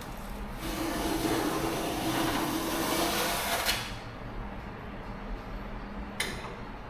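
Paint spraying: a hiss of about three seconds with a steady low hum under it, cut off sharply, then a single click a couple of seconds later.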